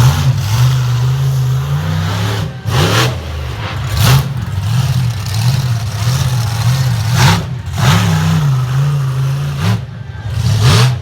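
Monster truck engine revving up and down over and over, with four short loud bursts.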